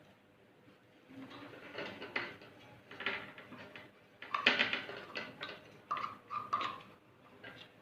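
Hand-feeding a baby bird with a bent teaspoon: irregular small clicks and taps, with a few short squeaks about six seconds in.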